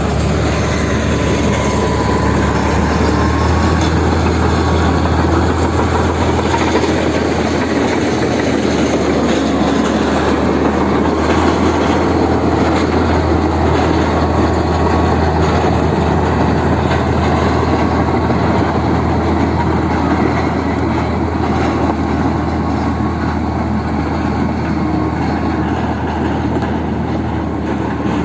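Komatsu D65E crawler bulldozer's diesel engine running steadily, a loud low hum that lasts throughout.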